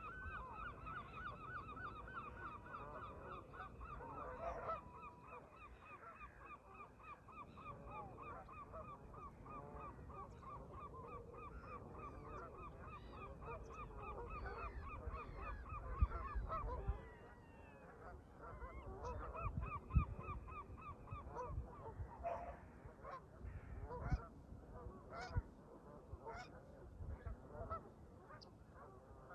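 A flock of Canada geese honking, a dense run of rapid overlapping calls that thins to scattered honks after about two-thirds of the way through. Low wind rumble on the microphone, with a couple of gusts.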